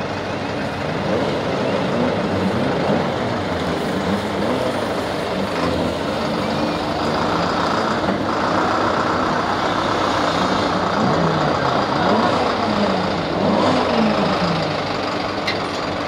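Saloon stock car engines running on track, several at once, their pitch rising and falling again and again as the drivers blip the throttle.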